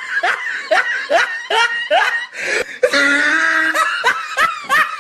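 A person laughing in a string of short, quick bursts, with a longer drawn-out laugh a little past halfway.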